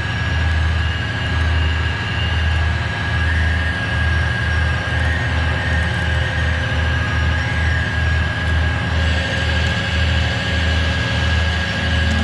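Tow truck engine running steadily during a winching pull, with a constant high whine over the low engine drone.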